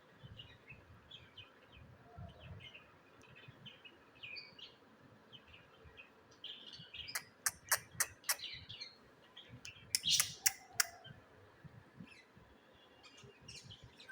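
Budgerigars chirping and chattering in short scattered notes. Partway through there is a quick run of about five sharp clicks, and soon after a louder cluster of them.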